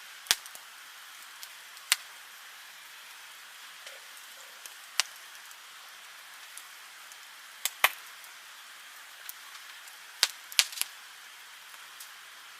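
Wood campfire burning with a soft steady hiss, broken at irregular moments by sharp pops from the burning logs, a few loud ones coming close together near the end.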